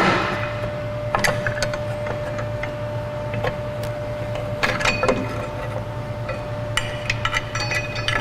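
Metal clanks and clinks of drum brake shoes and their return springs being worked off the backing plate: a sharp clank at the start that rings briefly, then scattered clicks and short metallic rings.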